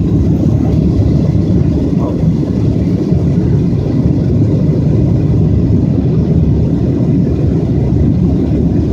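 Steady low rumble of an airliner's cabin in flight: jet engine and airflow noise heard from inside the cabin, unchanging in level.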